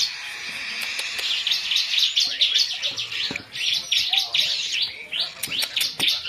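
Baby cockatiels chirping in quick succession, many short calls running into one another as the chicks squabble, with a brief lull about three seconds in.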